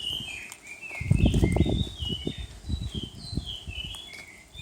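A bird singing a run of short whistled notes that hop up and down in pitch, with a cluster of low thuds and rumbling about a second in.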